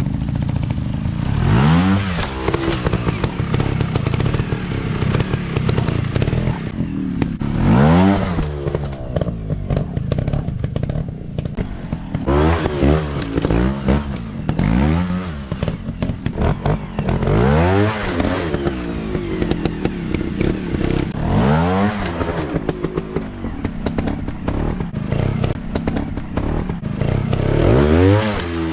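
Dirt bike engines revving in short bursts, the pitch climbing and dropping back again and again, about nine times, over steady rough engine running.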